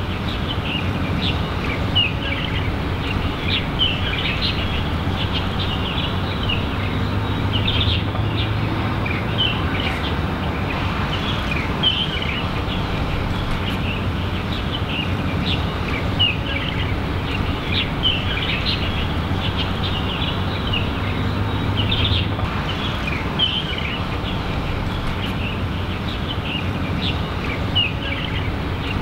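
Many small birds chirping and calling over a steady low rumble of outdoor background noise.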